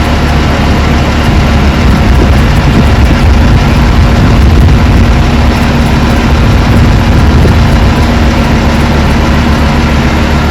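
Aircraft engines running loud and steady: a deep, continuous roar with a steady hum running through it.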